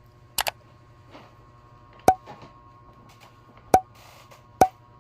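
A handful of short, sharp clicks or taps over a quiet room tone with a faint steady hum: a quick pair about half a second in, then single ones near two seconds, near four seconds and just before the end.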